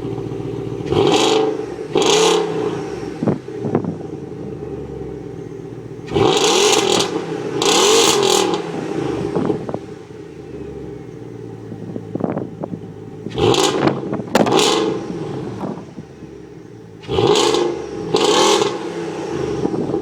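BMW X5 E53 4.8is's 4.8-litre V8 idling through a Dinan free-flow exhaust with the resonator deleted and a Magnaflow X-pipe, blipped in quick pairs of revs four times and settling back to idle between each pair.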